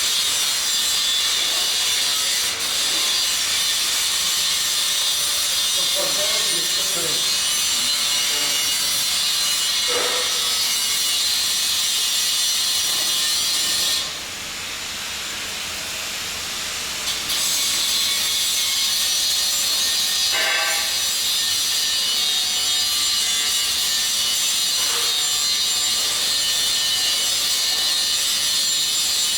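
Welding arc crackling and hissing steadily. It breaks off for about three seconds near the middle, then restarts.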